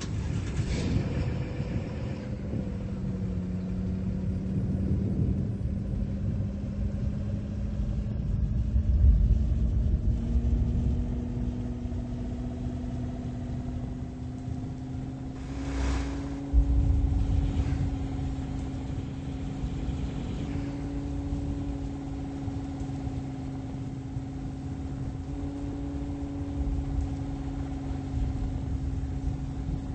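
A car driving, with a steady engine hum that rises slightly in pitch over low road rumble. There are a couple of short knocks a little past halfway.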